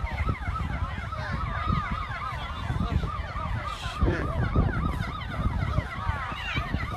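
Several emergency-vehicle sirens sounding at once, their fast rising-and-falling yelps overlapping, over low rumbling noise.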